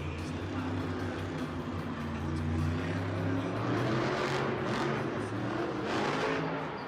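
Monster truck engine running with a steady low drone that shifts in pitch about halfway through. Several short bursts of hiss come over it toward the end.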